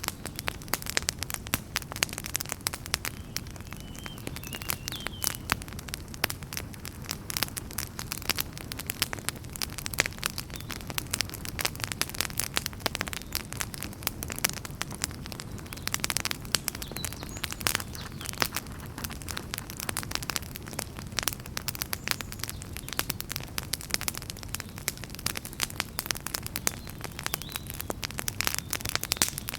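Wood fire in a fireplace crackling, with dense, irregular sharp pops and snaps over a steady low rumble of the flames.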